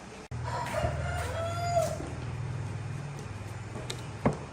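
A single drawn-out animal call, about a second long, over a steady low hum that starts suddenly; a sharp knock near the end.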